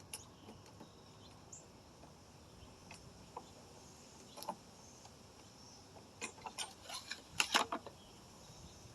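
Scattered light clicks and taps over a faint steady background, bunching into a quick run of clicks about six to eight seconds in.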